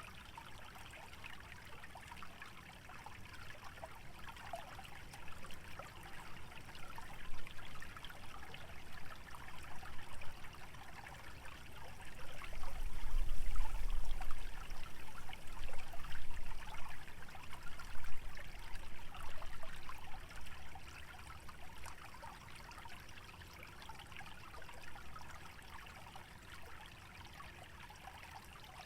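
A small stream trickling steadily through wetland vegetation. About twelve seconds in, a gust of wind swells with a low rumble, then dies away by about twenty seconds.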